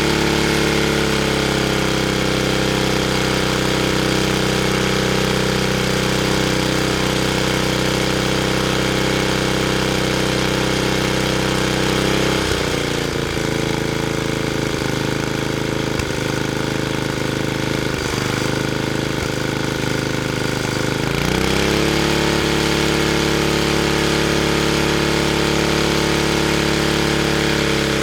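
Tecumseh HH60 single-cylinder four-stroke engine running steadily at speed. About twelve seconds in it drops to a lower, less even speed, and about nine seconds later it speeds back up and runs steadily again.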